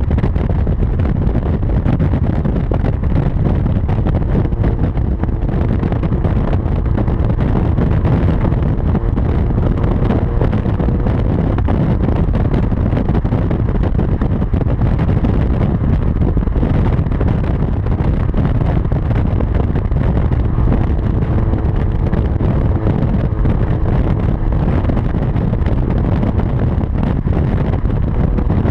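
Hyundai Genesis with a Tsudo aftermarket exhaust running at a steady engine speed, a low, even exhaust drone with no revving.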